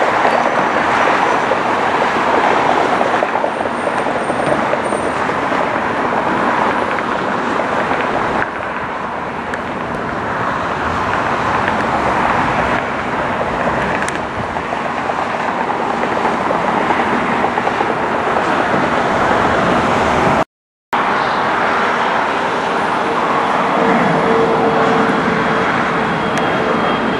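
Jet airliner engines, a loud steady rush of noise, broken by a brief cut to silence about two-thirds of the way through; near the end a steady whine rises out of the noise.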